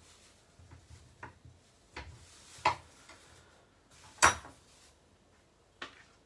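Kitchen handling sounds: a few separate knocks and clinks of utensils or containers being put down and picked up, the loudest about four seconds in.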